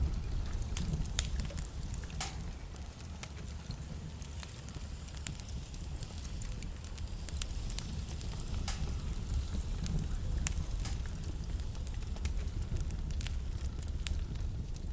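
Wood fire burning in a fireplace: burning logs crackling and popping in sharp irregular clicks over a steady low rumble of the flames.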